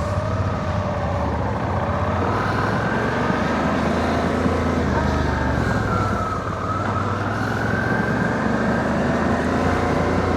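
Suzuki V-Strom adventure motorcycle's engine running while riding a dirt track, its pitch wavering up and down with the throttle.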